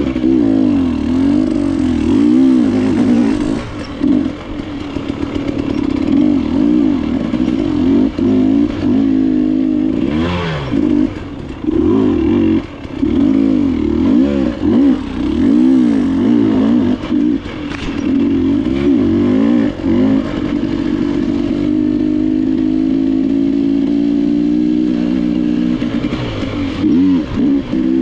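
KTM enduro motorcycle engine on a trail ride, its pitch rising and falling over and over as the throttle is opened and closed. It holds a steadier pitch for several seconds near the end, with brief drops around ten seconds in and again just before the end.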